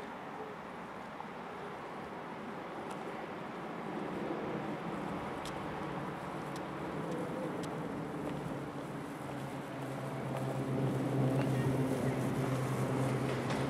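SBB RABe 514 double-deck S-Bahn electric train approaching, its running noise growing steadily louder, with a steady low hum coming in about ten seconds in.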